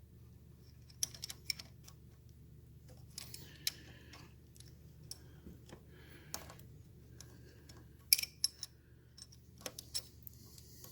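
Scattered light metallic clicks and taps from handling a chain press tool on the master link of a motorcycle drive chain, the loudest a quick run of sharp clicks about eight seconds in.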